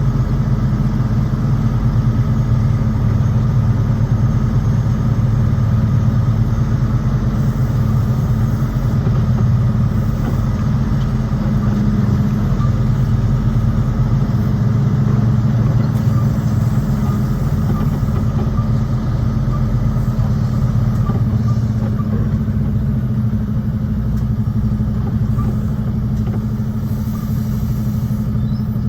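A large engine running steadily at an even, low speed, a constant deep hum with no change in pitch.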